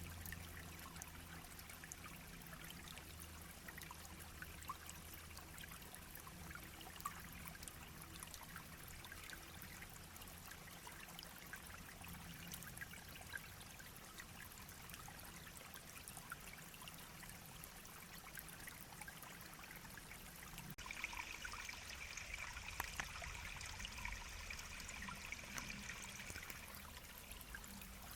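A shallow mountain brook babbling and trickling steadily over stones. About two-thirds of the way through, the sound changes abruptly and a steady high buzz joins the water for several seconds.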